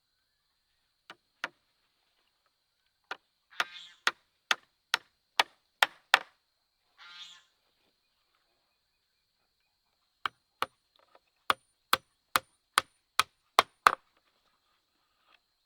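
A tool striking wood in quick, sharp blows, about two a second, in two runs of seven to nine blows with a pause of a few seconds between. A short animal call sounds twice during the first run.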